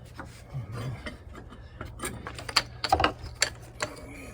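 Scattered sharp clicks and knocks of foundation hardware being lifted and worked into place, most of them in the second half, over a steady low hum.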